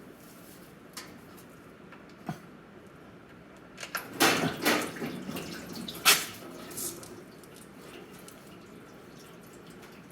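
Engine oil running out of a BMW M550i's oil-pan drain plug and dripping into a drain pan. A few louder knocks and rustles come about four to six seconds in, with single faint clicks before.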